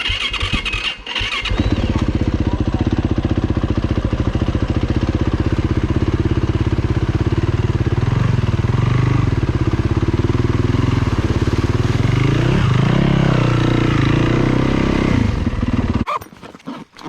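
Dirt bike engine starting and running steadily, its pitch rising and falling briefly twice as the throttle is blipped, then cutting off abruptly near the end.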